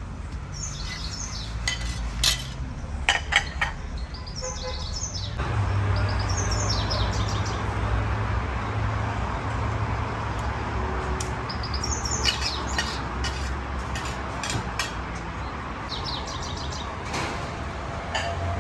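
Small birds chirping repeatedly over kitchen clatter, with a few sharp clinks of metal dishes or utensils early on. About five seconds in, a steady noisy rumble with a low hum sets in and continues.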